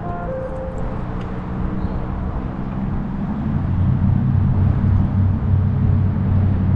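A heavy engine running with a steady low hum, growing louder from about halfway through, as if coming closer.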